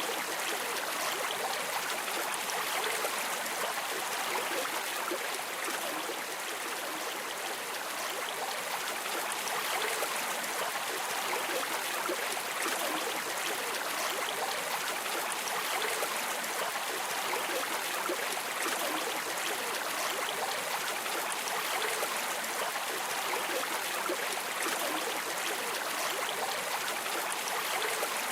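River water flowing and splashing steadily, a continuous rushing with fine trickling and gurgling detail.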